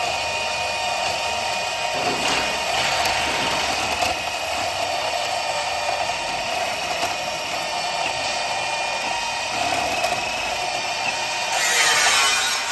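A power tool running steadily with a whining hiss, growing harsher and louder for about a second near the end.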